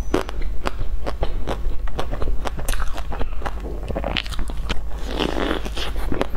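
Close-miked biting and chewing of a crisp-crusted bun: a quick, irregular run of small crunchy clicks. About four seconds in comes a denser, rustling crackle as the bun is bitten and pulled apart by hand.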